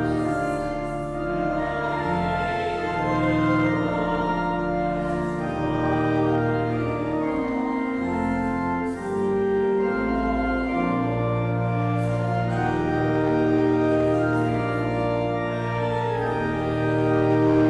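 Church organ playing slow sustained chords, the notes held and changing every second or two.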